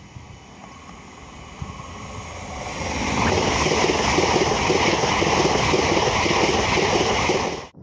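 High-speed passenger train approaching and passing close by: a rush of wheels on rail and air that builds over the first three seconds, then stays loud and steady as the coaches go by, cutting off suddenly near the end.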